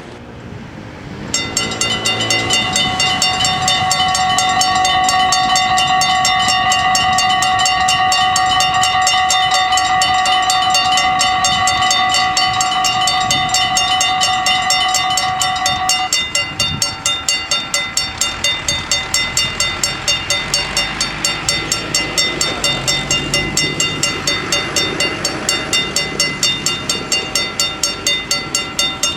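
Dutch level-crossing warning bells start ringing about a second in, a fast, steady, loud ringing. About halfway through the ringing changes: some of its tones drop out and it goes on as a lighter, pulsing ring, about two pulses a second.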